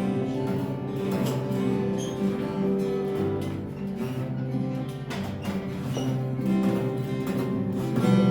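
Acoustic guitar playing chords in a 3/4 waltz pattern, plucked notes ringing over one another.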